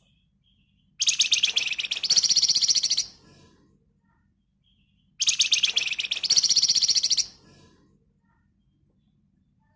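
A Flamboyan songbird singing two dense, rapid trills of about two seconds each, the 'ngebren rapat' rattle prized by keepers, each stepping up to a higher pitch halfway through. They are loud and high-pitched, with short pauses between.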